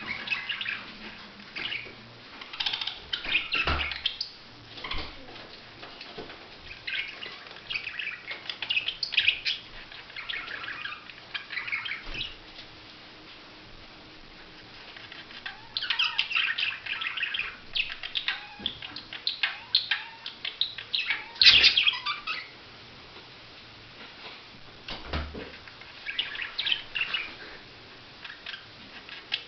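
Budgerigars chirping and chattering in short spells of rapid chirps, with quieter gaps between them and a few soft knocks.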